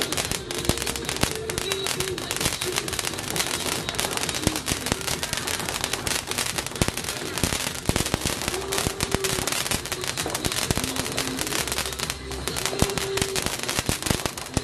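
Fireworks crackling and popping in dense, irregular rapid bursts, with voices in the background.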